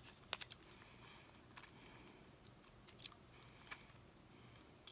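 Near silence broken by a few faint, irregular clicks from chewing a sticky Puccho candy chew.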